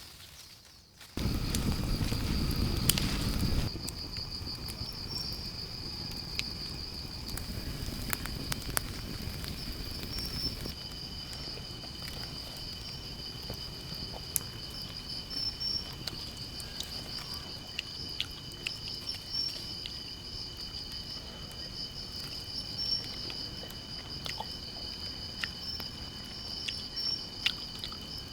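Crickets chirping in a steady, high, pulsing trill, with scattered faint clicks throughout. A burst of low rushing noise starts about a second in and stops about two seconds later.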